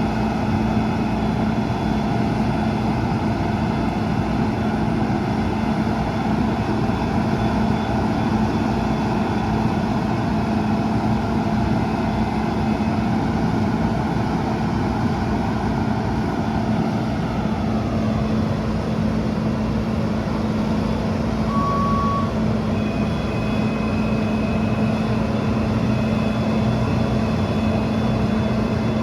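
Cummins B6.7 turbo diesel in a Mack MD truck running steadily with a constant hum, and a single short beep about 22 seconds in.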